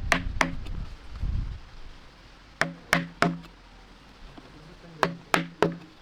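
Sharp knocks in three quick groups of three, each knock with a short low ring after it.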